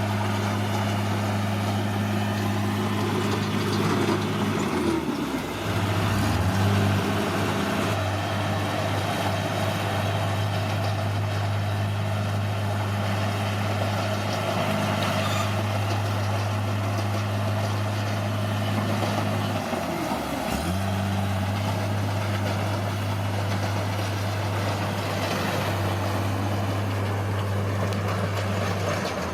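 Bulldozer's diesel engine running steadily under work. Its pitch sags and recovers twice, about five seconds in and again near twenty seconds, as the engine takes on load.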